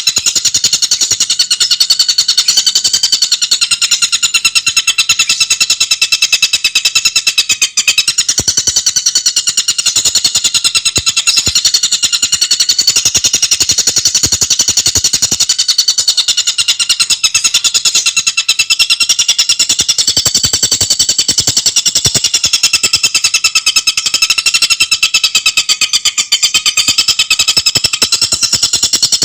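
Tengkek buto bird singing a continuous, very fast rattling chatter of tightly packed high notes, with no breaks.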